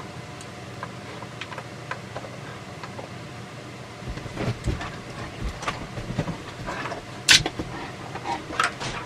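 Dog chewing a bone: irregular crunches and clicks from about four seconds in, with one sharp click near the end, over a steady low hum.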